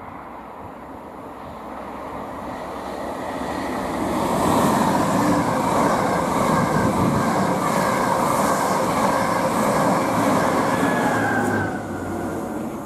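Passenger train of Mark 3 coaches passing at speed. The rush of wheels on rail swells as it approaches and stays loud as the coaches go by. It drops off sharply near the end as the last coach passes.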